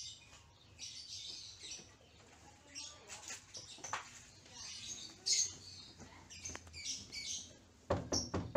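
Small birds chirping repeatedly, then several sharp knocks on a wooden door near the end.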